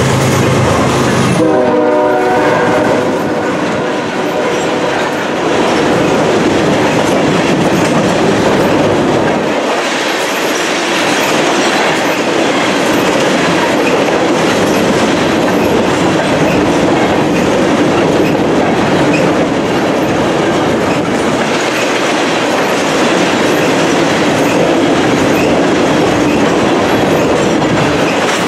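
The diesel engines of the GE locomotives drone loudly as they pass at the start. After that a long train of empty covered hopper cars rolls by with a steady rumble and the clickety-clack of wheels over the rail joints.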